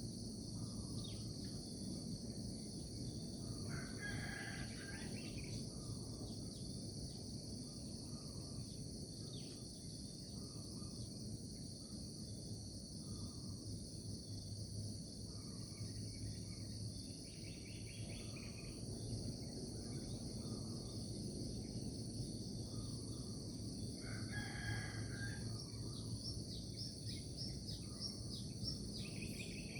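A rooster crowing twice, once about four seconds in and again past the middle, over a steady chorus of crickets and a low steady rumble.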